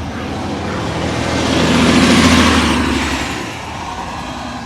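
A motor vehicle passing close by on a city street. Its engine and tyre noise build up, are loudest a little after two seconds in, then die away.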